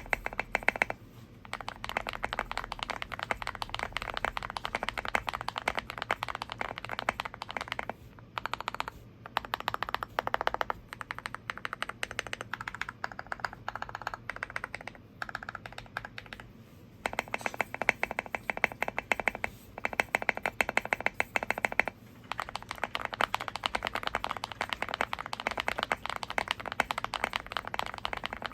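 Typing on a Zoom65 mechanical keyboard with KTT Haluhalo switches and OSA-profile keycaps: a rapid, continuous run of key clicks with a few brief pauses.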